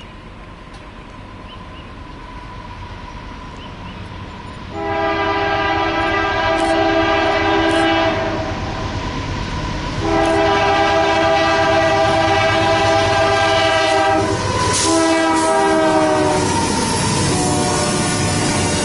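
Diesel freight locomotive's multi-note air horn sounding the grade-crossing signal: two long blasts, a short one, then a long one, over the rumble of the train, which grows louder as it approaches.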